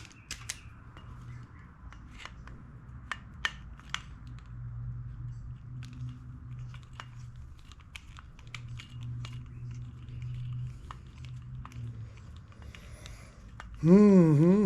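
Light metal clicks and clinks of small tools and carburetor parts being handled, over a low steady hum. Near the end comes a short, louder, wavering vocal hum that slides up and down in pitch.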